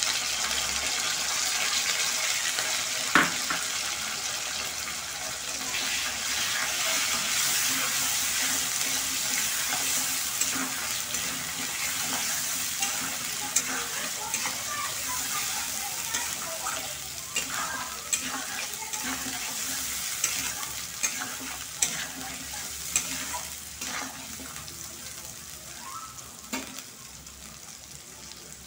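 Potato wedges, ginger paste and ground spices sizzling in hot oil in a kadai while a spatula stirs them, with sharp taps and scrapes of the spatula on the pan, the loudest about three seconds in. The sizzle eases off toward the end.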